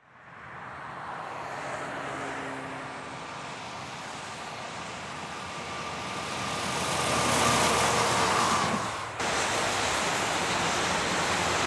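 Road vehicle noise: engine and tyre rush swelling as a vehicle passes close, loudest about eight seconds in. About nine seconds in it breaks off suddenly into steady road noise.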